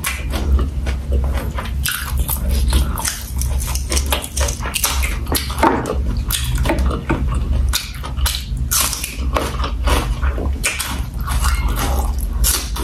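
Close-miked chewing with wet lip smacks and many sharp clicks and crunches, as raw vegetables dipped in prahok are eaten, over a steady low hum.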